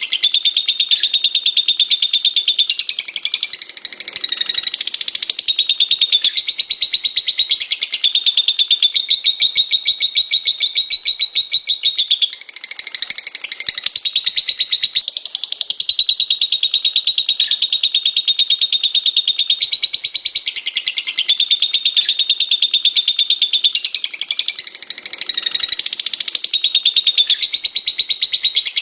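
Lovebirds chattering: a continuous stream of rapid, high, shrill chirps and twitters with no pauses.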